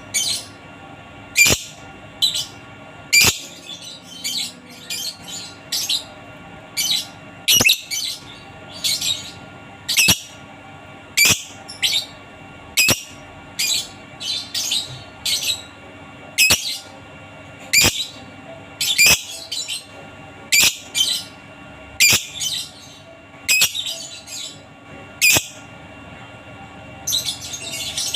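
Lovebird calling in short, sharp, high chirps repeated about once a second, with a quicker run of chatter near the end.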